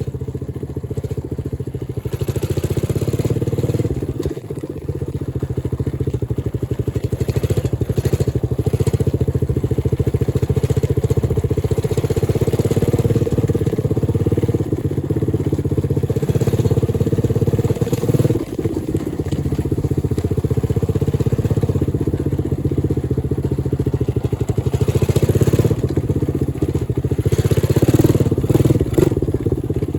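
Dirt bike engine running steadily while being ridden, with the fine, fast firing pulse of a small single-cylinder motor and a hiss of air noise over it.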